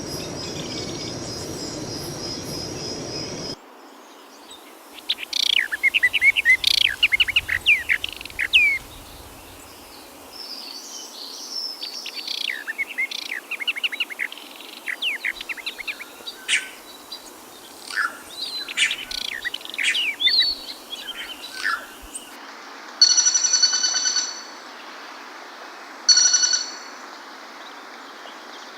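Songbirds singing in recordings cut together. A steady, high, pulsing trill for the first few seconds, then a bird singing quick runs of sharp descending notes and chirps. Near the end come two bursts of a clear, pitched call.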